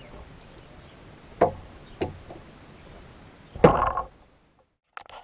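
Three sharp knocks, the third about three and a half seconds in the loudest with a short ring, then the sound cuts off abruptly.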